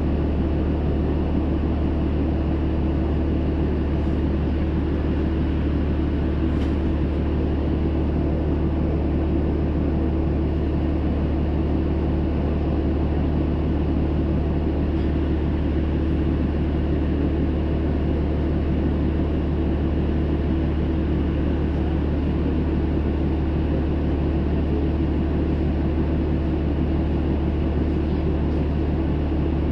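Inside the cabin of a Hino Rainbow II (PDG-KR234J2) city bus: its diesel engine running with a steady low hum that holds one unchanging pitch, over a constant rumble.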